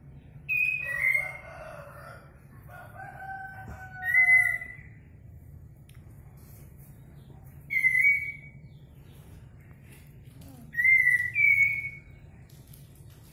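Birds calling: a rooster crows in the first few seconds, and a bird gives short whistled calls every three to four seconds, twice in quick succession near the end. A low steady hum runs underneath.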